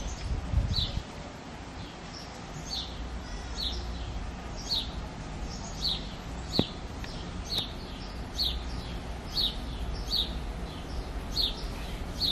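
A small bird chirping over and over, short high downward-sliding notes one to two times a second. A single sharp click about halfway through.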